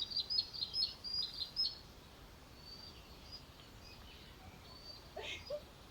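A small bird singing a quick run of short, high chirps for the first two seconds, then a few fainter, scattered notes, over steady outdoor background noise.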